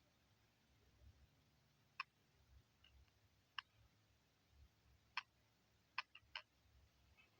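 Faint, sharp clicks at irregular intervals, three of them in quick succession near the end, over a low, quiet rumble.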